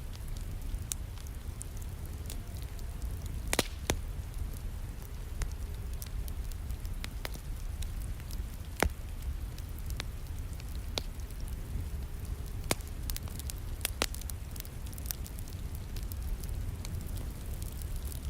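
Wood fire crackling, with irregular sharp pops and snaps, a few much louder than the rest, over a steady low rushing of rain.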